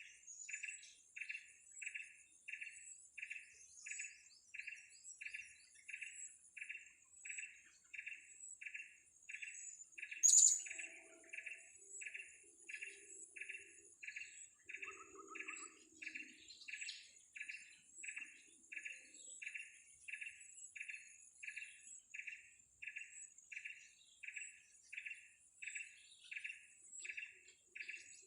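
Serindit (blue-crowned hanging parrot) repeating a short chirp very evenly, about three times every two seconds, over a steady high insect buzz. One sharp click comes about ten seconds in.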